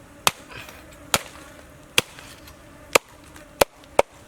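A knife chopping: seven sharp chops, about one a second, coming quicker near the end.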